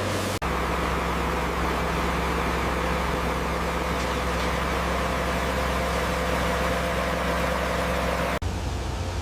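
Heavy construction machine's diesel engine running steadily with a low hum, with two abrupt cuts, about half a second in and near the end, where the engine note suddenly changes.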